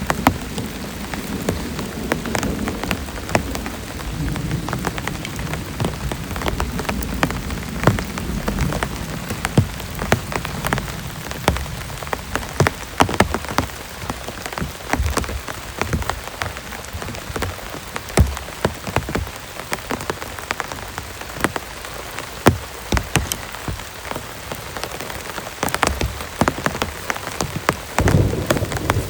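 Heavy rain falling steadily, with many sharp individual drop impacts on a surface close by. A low thunder rumble dies away in the first few seconds.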